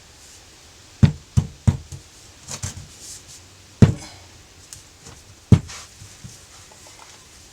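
A series of sharp knocks and taps on hard parts during engine rebuild work: three quick knocks about a second in, a few softer taps, then two single loud knocks, one with a brief ring.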